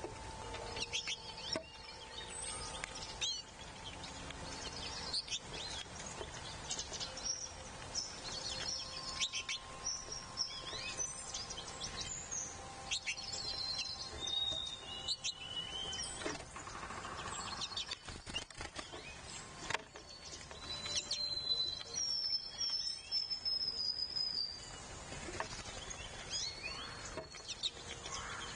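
Wild songbirds chirping and calling in short, scattered notes, with one longer, slightly falling whistle about three-quarters of the way through, and occasional soft clicks among the calls.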